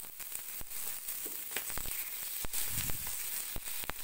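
Raw chicken livers frying in hot oil and garlic in a wok: a steady sizzle that starts suddenly, with frequent sharp pops and crackles.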